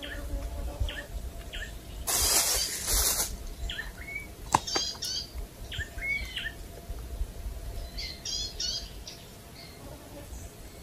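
Birds chirping in the surrounding forest: short, high, repeated calls that come again and again, with the densest bursts near the start and about eight seconds in. A rustling noise lasting about a second comes about two seconds in, and a single sharp click comes midway.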